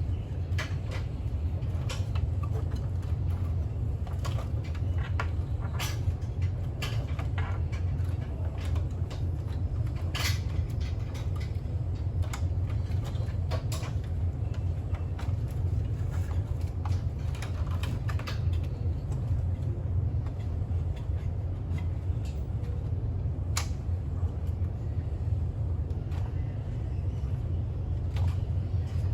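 A steady low hum with irregular clicks and light knocks scattered over it.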